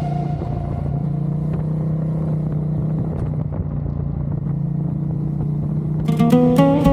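Ducati Diavel's V-twin engine running steadily at an even cruising speed, with road noise, heard between music tracks; music starts again near the end.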